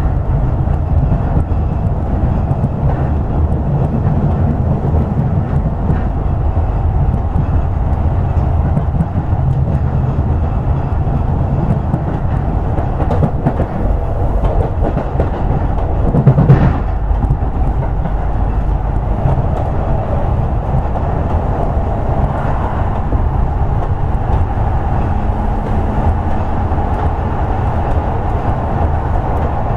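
Toei 10-300 series commuter train running at speed, heard from inside the car: a steady low rumble of wheels on rail. A brief loud clatter comes a little past the halfway point, and a faint steady tone from the running gear joins in the second half.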